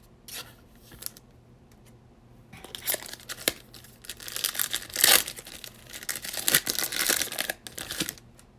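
Baseball card pack wrapper being torn open and crinkled by hand: a few light clicks, then about five seconds of dense tearing and crackling of the wrapper, loudest about halfway through.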